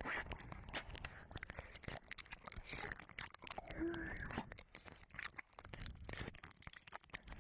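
Wet ear licking and mouth sounds close on a 3Dio binaural microphone's ear: a dense, irregular run of wet clicks, smacks and slurps.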